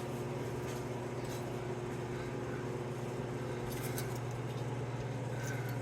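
A steady low hum with a faint hiss, and a few faint light clicks about four seconds in.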